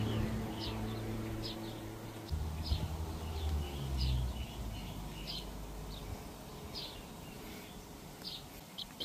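A bird chirping repeatedly, short high calls about once a second, over a low steady hum that shifts pitch a few times and fades out about six seconds in.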